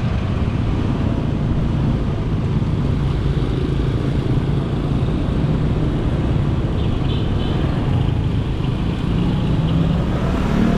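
Motorcycle engine running at a steady cruising speed, heard from aboard the moving motorcycle, with road and wind noise.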